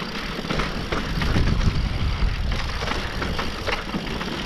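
Mountain bike riding fast down a loose dirt trail: a steady wind rumble on the microphone with tyre noise and frequent sharp rattles and knocks from the bike over bumps.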